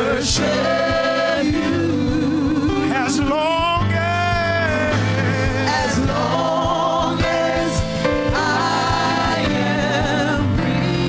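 Gospel worship song: voices singing with vibrato over a band's sustained low notes, with a few cymbal-like hits.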